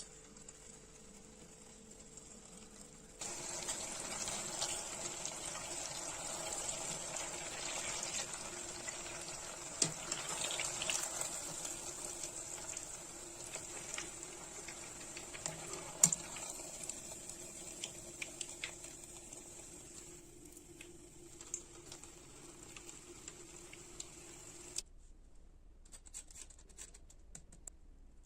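Water running from a kitchen tap, switching on about three seconds in and cutting off near the end, with a few sharp knocks and clicks against it.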